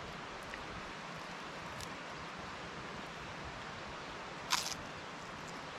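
Steady outdoor background hiss, with one short, crisp crunch about four and a half seconds in.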